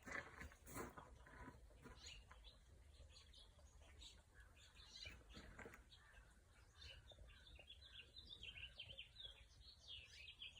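Faint birds chirping, with the short calls coming thicker in the second half, over a low steady background rumble.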